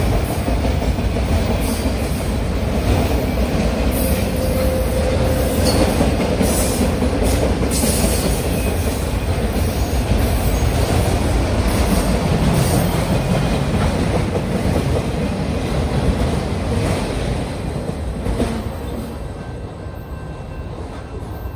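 Freight train of enclosed autorack cars rolling past: a steady rumble and rattle of steel wheels on the rails. It fades over the last few seconds as the end of the train passes and draws away.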